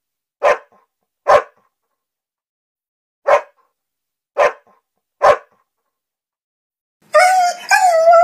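A dog barking: five single sharp barks, two about a second apart, then three more about a second apart after a short pause. Near the end a dog starts a long, slightly wavering howl.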